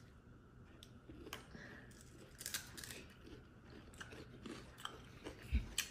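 Faint biting and chewing of fried chicken ice cream, with scattered small crunches from its crunchy coating, and a soft low thump near the end.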